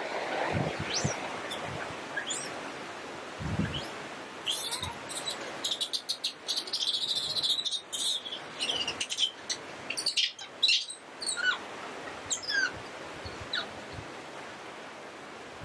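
Small birds chirping and twittering: short high calls scattered throughout, thickening into a dense run of twittering a few seconds in, with a single low thud shortly before.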